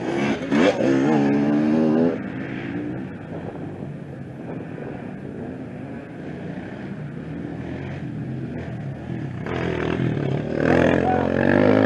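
Off-road racing motorcycles passing: one loud near the start, a quieter engine drone in between, and another bike growing loud from about nine and a half seconds in, the engine pitch rising and falling as the rider works the throttle.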